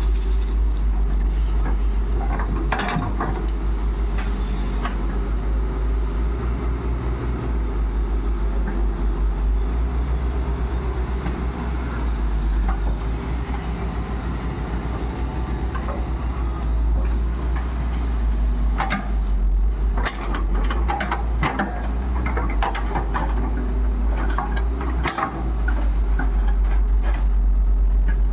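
Diesel engine of a JCB 3DX backhoe loader running steadily as it loads mud into a tractor trolley, with scattered knocks and rattles, mostly in the second half.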